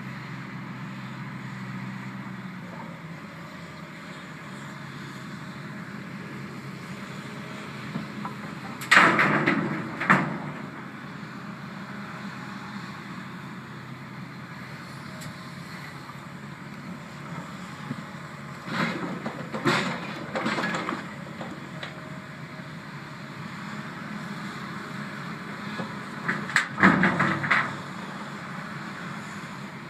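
Heavy earthmoving machinery running steadily, with three loud bursts of clattering about ten seconds apart, typical of a shovel dropping loads of rock into a rock truck's steel bed.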